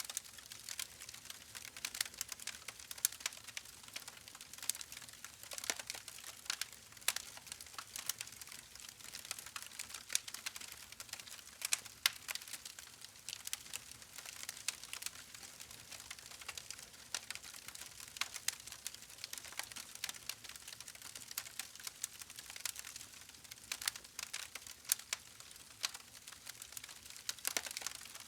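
Campfire burning, its wood crackling and popping in dense, irregular sharp clicks over a steady soft hiss.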